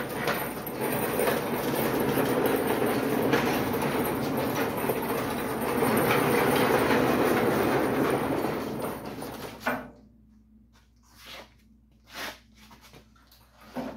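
A loud, steady mechanical noise, like a motor or air running, cuts off suddenly about ten seconds in, followed by a few light knocks.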